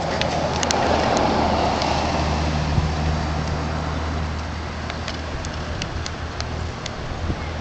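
A motor vehicle's engine running close by, a steady low drone over traffic noise, with a few sharp clicks scattered through.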